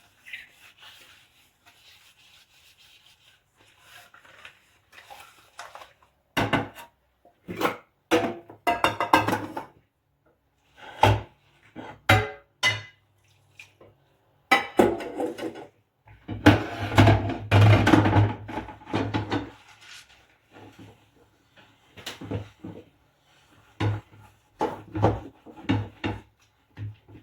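Dishes and cookware being hand-washed and handled: irregular clinks, knocks and clatters, some ringing briefly, coming in bursts with short quiet gaps, busiest about two-thirds of the way through. The first few seconds are faint.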